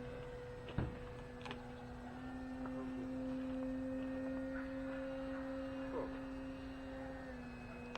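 Electric radio-control model airplane's motor and propeller droning steadily in flight, a humming tone that rises slightly in pitch about two seconds in and drops a little near the end.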